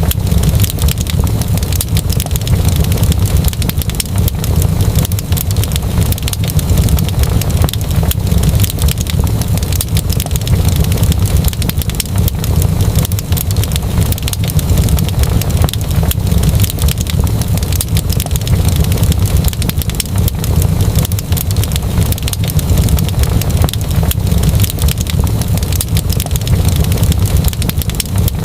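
Wood fire crackling in a fireplace: a dense run of small, sharp pops over a steady low rumble.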